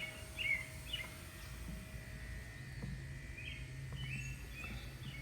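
Birds chirping: two short bursts of quick chirps, about half a second in and again about three and a half seconds in, over a steady low hum.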